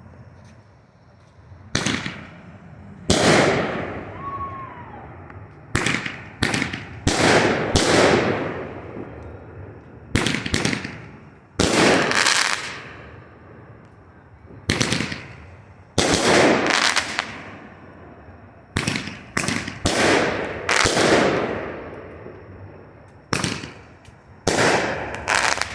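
Two 3D Pyro Chroma Roman candles firing together, shot after shot at uneven intervals, each shot a sharp pop followed by a hiss that fades over a second or so.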